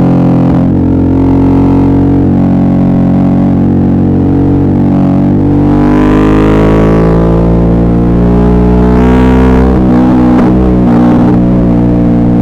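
Suzuki V-Strom 650's V-twin engine running under way, its pitch drifting gently with the throttle. Two swells of rushing noise come over it, about halfway through and again a few seconds later.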